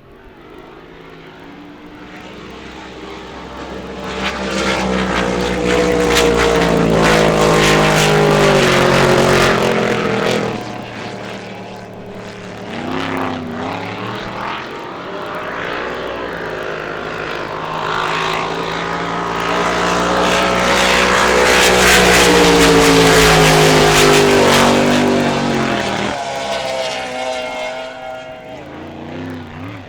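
Racing hydroplane engines running hard as the boats pass. The sound swells and drops in pitch as they go by, twice, with a dip between the two passes.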